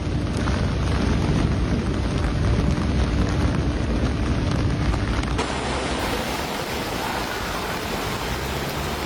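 Heavy rain in a storm: a dense, steady rush of rain with low rumbling, changing abruptly about five seconds in to a brighter, hissing downpour.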